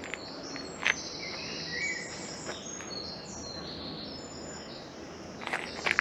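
Birds singing: a run of short high chirps and trills, over steady low background noise, with a few soft clicks about a second in and again near the end.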